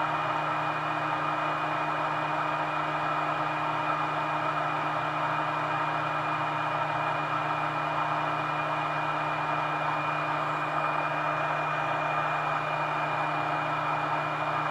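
Yihua 8858 hot air rework gun's blower fan running at full air flow: a steady rush of air with a low hum and a thin high whine that hold constant throughout.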